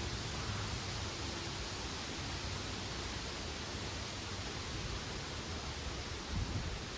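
Wind through backyard trees and plants: a steady rustling hiss of leaves, with low wind buffeting on the microphone that gets stronger and gustier near the end.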